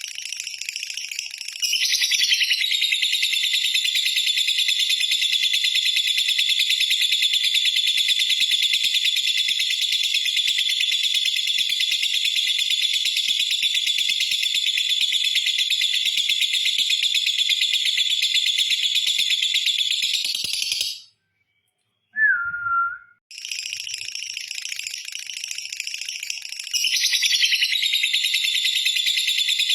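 Lovebird "ngekek": a long, unbroken, high-pitched chattering trill. It rises in loudness about two seconds in and runs for nearly twenty seconds before breaking off abruptly. A single short chirp follows, then the trill starts again quietly and grows loud near the end.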